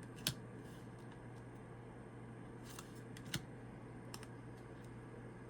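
Tarot cards being handled between comments, giving a few faint, short clicks and brushes over a quiet room with a steady low hum.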